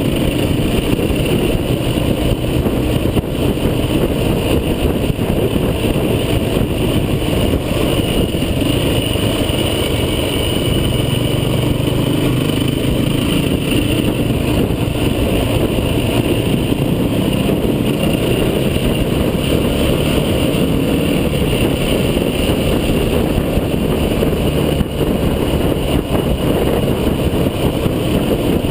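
Off-road vehicle engine running steadily under load on a rough track, with a dense low rumble and a slightly stronger engine note from about ten to sixteen seconds in.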